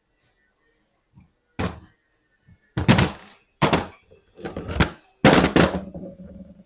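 Compressed air hissing out in a series of short, loud blasts, each under a second, as the AD-9 air dryer's valve is blown through and tested.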